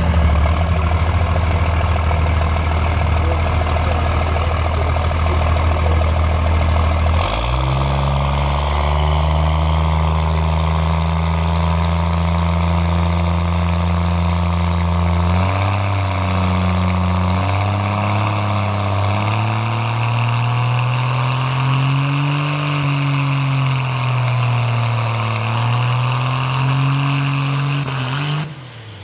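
A vehicle engine running loudly at a steady low pitch, stepping up in pitch about seven seconds in and again about halfway, then wavering slowly up and down as the revs change; it cuts off abruptly near the end.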